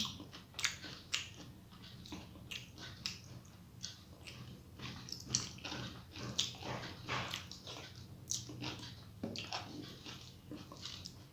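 A person chewing mouthfuls of rice and mashed vegetables, with irregular wet clicks and smacks of the mouth every fraction of a second.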